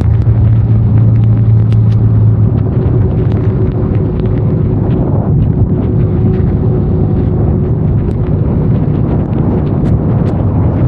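Benelli Leoncino 500 parallel-twin engine running under way with rain and wind noise around it, and scattered sharp ticks of raindrops striking the microphone. The engine's steady note loosens into rougher noise about two seconds in.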